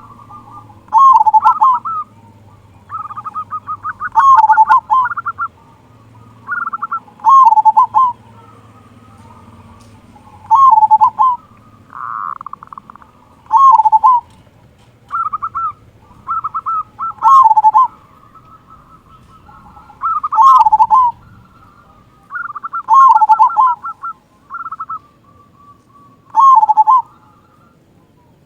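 Zebra dove (perkutut) cooing its song over and over: each phrase is a quick run of staccato coos ending in a loud dipping 'kung' note, repeating about every three seconds.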